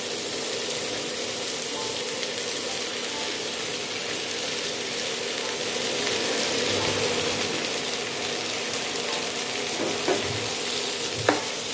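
Onion and potato slices frying in oil in a wok, a steady sizzle, as pieces of sponge gourd are added to the pan. A couple of light knocks near the end.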